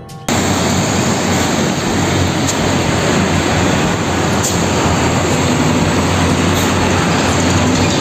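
Road traffic with concrete mixer trucks driving past alongside motorcycles: a steady engine drone under a broad wash of road noise.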